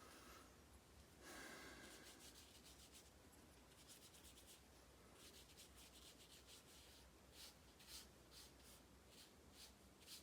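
Faint paintbrush strokes brushing across watercolor paper: a soft scratchy stroke early on, then a run of short strokes in the second half, over a low steady room hum.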